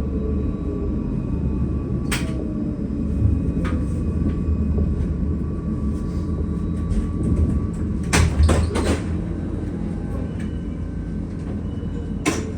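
Tram running, heard as a steady low rumble with a faint steady whine in the first half. Sharp knocks and clacks come about two seconds in, in a quick cluster around eight seconds, and once near the end.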